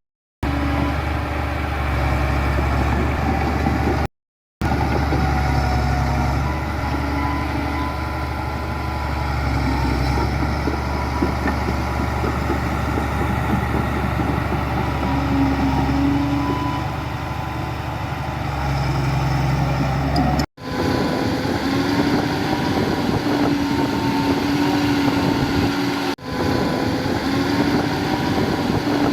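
Heavy diesel engines of construction machinery (bulldozers and dump trucks) running steadily with a deep rumble. The sound cuts out briefly a few times, and near the two-thirds mark the deep rumble gives way to a lighter, steady engine hum.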